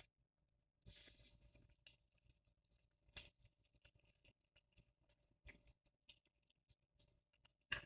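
Soft, close-up eating sounds of Buldak spicy ramen noodles being chewed: scattered small wet clicks and crackles, with a brief louder hiss about a second in.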